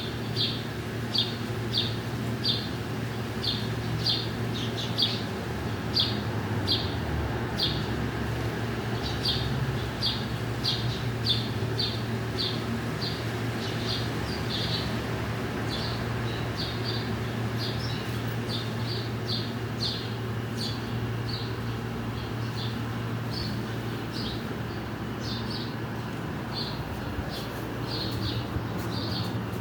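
A small bird chirping over and over in short, high chirps, about two a second, over a steady low hum.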